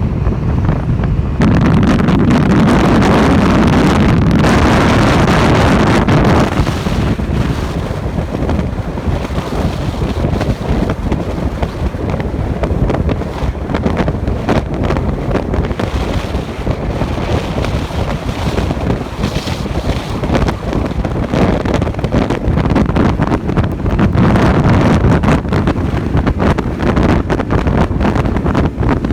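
Wind buffeting the microphone on a moving motorcycle, a steady rush of wind and road noise that eases slightly about six seconds in.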